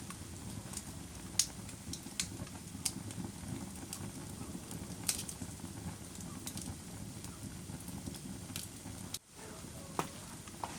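Wood fire crackling in a fireplace: a steady low rumble of flame with sharp pops and snaps every second or so. The sound dips out briefly about nine seconds in.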